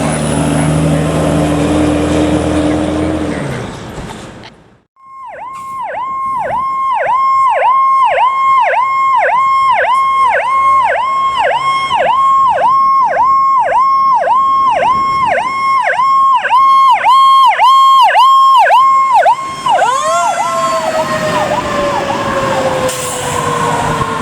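Fire truck air horn blowing steadily, then stopping about three seconds in. After a break, an electronic siren yelps rapidly at about two cycles a second for about fifteen seconds. Near the end a mechanical siren winds down in a long falling tone while the electronic siren carries on more faintly.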